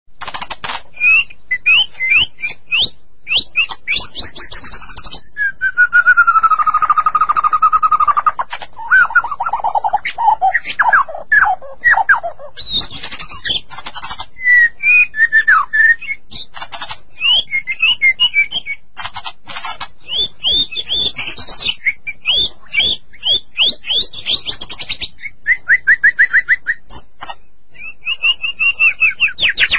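White-rumped shama (murai batu) singing a varied song. Quick runs of sharp chips and trills are mixed with whistled phrases, including a long whistle about six seconds in that slowly falls in pitch.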